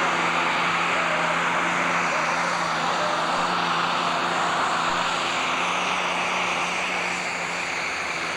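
Super stock pulling tractor engine running at a steady speed, fading slightly near the end.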